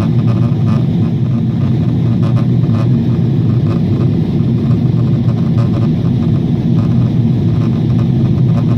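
Boeing 777 airliner cabin noise in flight: a steady low roar of engines and airflow.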